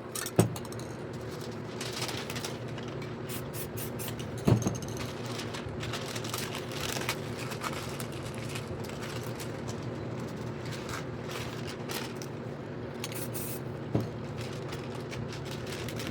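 Aerosol spray paint can sprayed in many short hissing bursts, with three sharp knocks, over a steady low hum.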